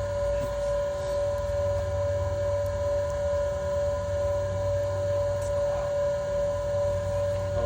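Smoke machine running steadily during an EVAP leak test, a constant hum with a steady mid-pitched tone as it pushes smoke into the fuel vapour system.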